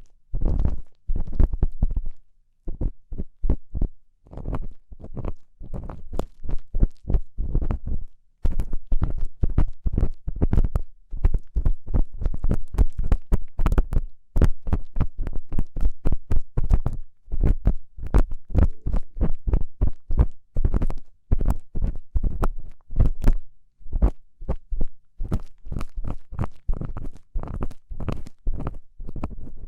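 Ear-cleaning tool scraping and scratching inside a binaural microphone's ear in quick, irregular strokes, with scratchy clicks over low thuds and a few brief pauses.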